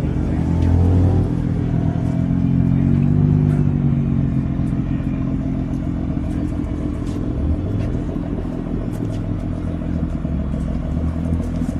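Car engine running at a steady idle, its revs rising briefly about seven seconds in.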